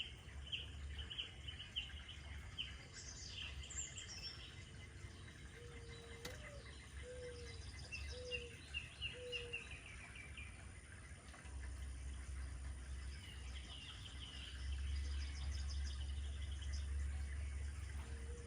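Several birds singing: high trills and chirps, with a short run of low, repeated, slightly falling notes from about six to ten seconds in. Beneath them is a steady low rumble that grows louder about two-thirds of the way through.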